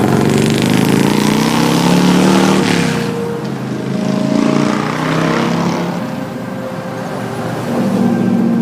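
Road traffic: vehicles passing close by one after another, engines and tyres swelling and fading about three times.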